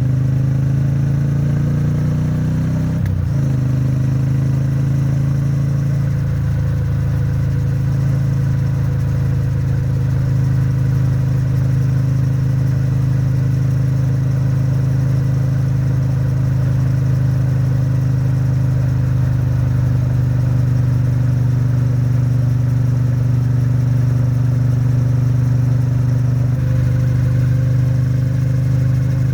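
Triumph Bonneville T100's 900 cc parallel-twin engine and exhaust under way at highway speed: the revs climb, a gear change comes about three seconds in, and then the engine holds a steady cruising note. The engine is in the later part of its break-in and is kept at moderate revs.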